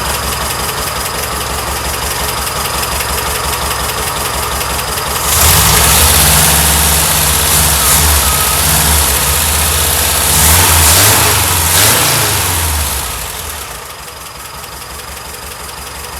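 Air-cooled Type 4 VW flat-four engine running on a new carburetor: it idles, is revved up about five seconds in and held higher with a few rises and falls in pitch, then drops back to idle near the end.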